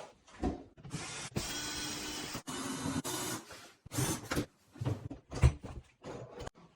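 Handling and mechanical noise from kitchen-fitting work, heard as short, abruptly cut stretches of whirring hiss with several knocks. The sharpest knock comes about five and a half seconds in.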